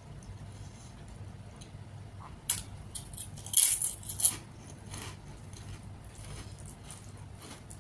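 Crunching and chewing a crisp fried 'colourful fingers' fryum snack close to the microphone: a sharp crunch about two and a half seconds in, then a louder cluster of crunches around three and a half to four seconds.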